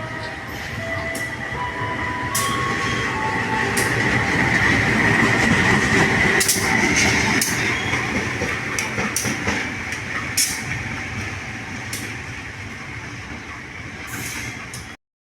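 Passenger train passing, growing louder to a peak about six seconds in and then fading, with repeated clacks of wheels over rail joints and a steady high wheel squeal. The sound cuts off abruptly near the end.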